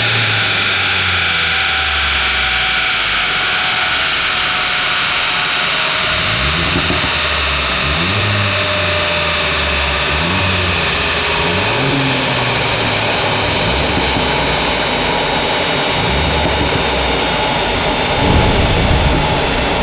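Ford Fiesta ST's 1.5-litre turbocharged three-cylinder with a Milltek cat-back exhaust, revved in a string of short rises and falls, under a steady loud rush of air. The engine note drops back early on, blips repeatedly from about six seconds in, and swells again near the end.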